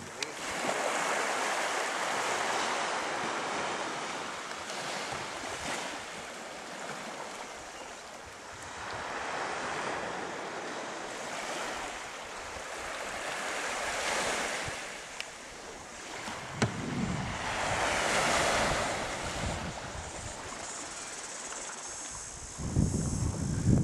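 Water washing in slow swells that rise and fade every few seconds, like waves surging. Wind buffets the microphone with low rumbles, briefly about two-thirds of the way in and again near the end.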